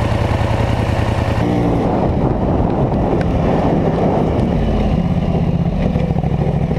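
Polaris Scrambler 850 ATV engine running, its pitch rising and falling a few times.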